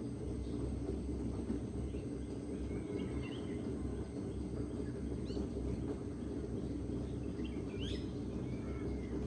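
Steady low rush of a river flowing, with faint, scattered bird chirps and a couple of short rising calls above it.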